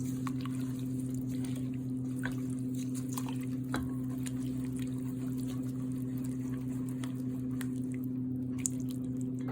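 A soupy mix of seeds, oil and water being stirred in a bowl: wet squishing and light scattered clicks. A steady low hum runs underneath.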